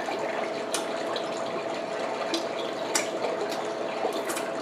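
Steady hissing background noise with a faint steady hum, broken by several sharp clicks, about five of them, the last two close together near the end.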